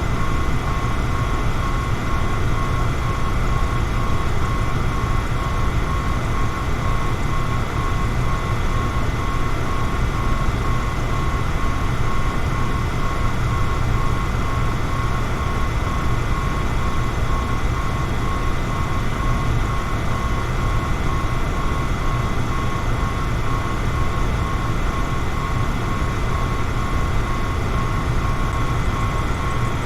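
Electric fan running steadily: a constant whooshing drone with a low hum and a faint steady whine.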